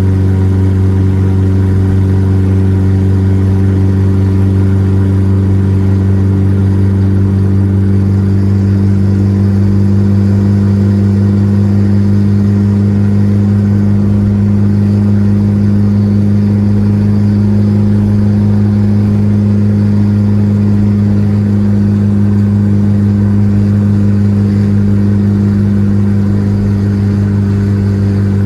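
Volkswagen Gol G4 Rallye engine droning steadily on the move, holding one pitch with no revving up or down, as when cruising at constant speed.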